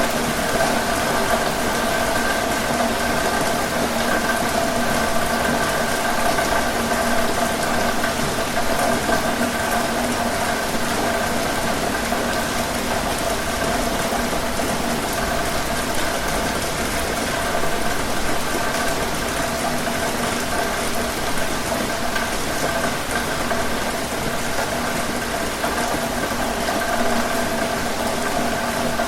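Steady rain noise with a continuous engine-like drone of several steady pitches over it.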